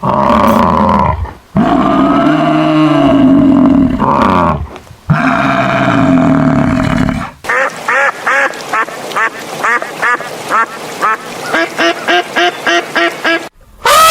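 Three long, low farm-animal calls, then ducks quacking in a quick run of about three quacks a second for the last six seconds.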